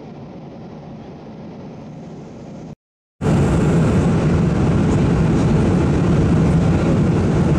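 Steady airliner cabin noise of a Boeing 777-200LR in flight: an even rush of engine and air noise. About three seconds in it drops out for half a second, then comes back much louder.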